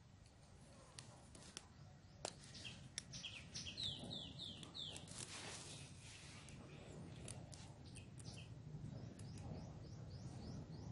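Faint bird calls: a quick run of falling chirps about four seconds in and more near the end, over scattered light clicks and ticks from the metal spring snare being handled as it is set.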